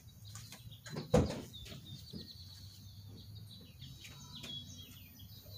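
Faint bird chirps, a series of short high calls with quick falling notes, over a low steady background hum, with one sharp thump about a second in as the loudest sound.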